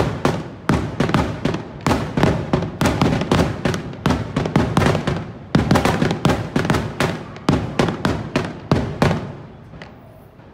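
Fireworks display: aerial shells bursting in a rapid barrage of loud bangs, about three a second, starting suddenly and dying away about nine seconds in.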